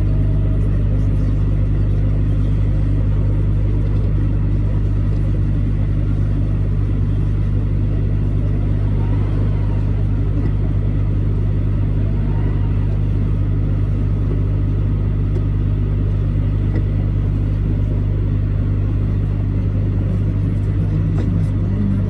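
Truck running at a steady pace: an even, low engine and road drone that doesn't change.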